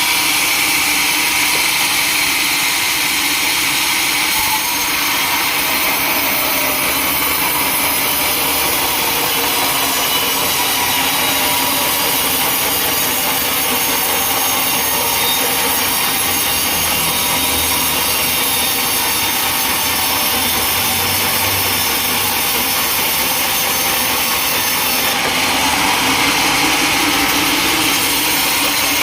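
Sawmill saw cutting through timber: a steady, loud machine-and-cutting noise whose tone shifts about four seconds in and again near the end.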